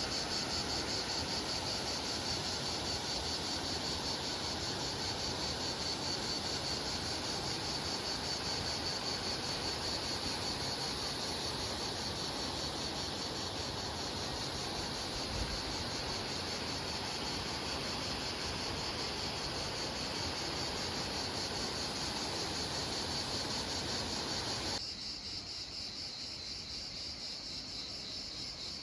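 Steady chorus of insects, a fast pulsing high-pitched trill, over a rustling background noise. About 25 seconds in, the background noise drops abruptly and the insects carry on alone.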